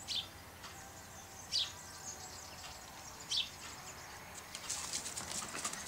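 A bird calling: three short, sharp chirps that drop in pitch, about a second and a half apart, over a steady outdoor background hiss. Near the end comes a run of quick faint high-pitched clicks and rustles.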